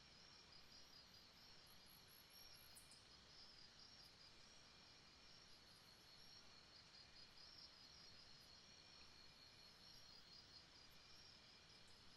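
Faint jungle ambience: insects trilling steadily in a fast pulsing high pitch, with short runs of fainter, higher chirps over it.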